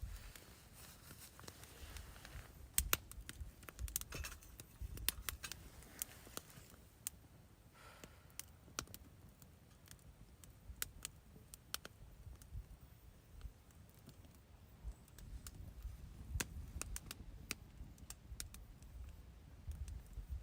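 Scattered light clicks and taps, irregular and several a second at times, over a faint low rumble.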